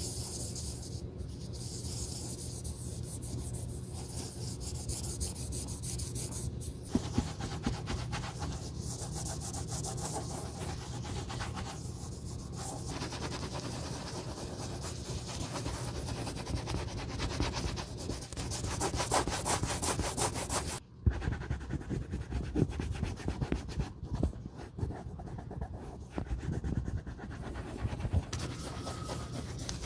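Rapid, repeated rubbing strokes on a boot being restored, running continuously. There is a brief sudden break about two-thirds of the way through, and then the rubbing goes on with a slightly different texture.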